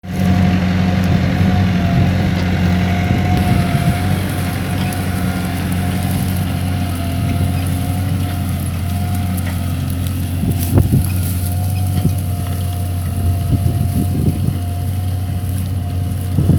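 LS tractor's diesel engine running steadily under load while pulling a plough, with a thin wavering whine above the engine drone. A few short knocks come about eleven seconds in and again a little later.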